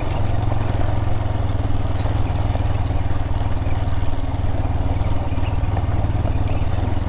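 Adventure motorcycle engine running steadily at low, even revs while the bike rides slowly along a rocky, rutted dirt trail.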